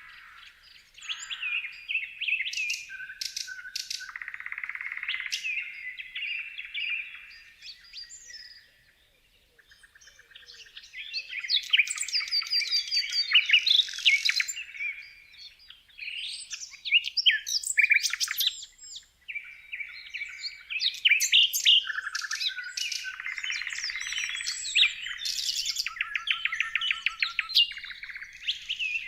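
Several songbirds singing and chirping at once, with quick trills and whistled phrases overlapping, and a short lull about nine seconds in.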